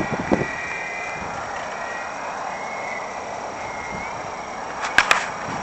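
Electric motor and propeller of an FMS PT-17 RC biplane whining at full throttle, a thin high tone that wavers and rises slightly about four seconds in, over wind noise. Two sharp clicks come about five seconds in.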